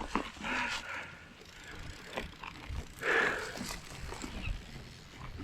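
Mountain bike riding down a dirt trail: low rumble of tyres and wind on the helmet or bike camera, with scattered rattles and clicks.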